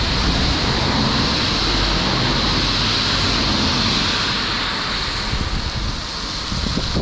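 Steady rush of wind over the microphone of a camera riding on a moving motorcycle, with no clear engine note standing out.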